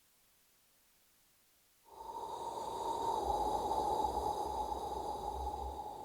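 The dance's soundtrack opening: after silence, an airy, breath-like rushing sound starts suddenly about two seconds in and swells, with a faint high shimmer above it.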